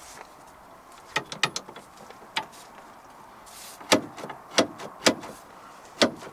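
A series of about seven sharp knocks and clacks at irregular intervals, with no engine running.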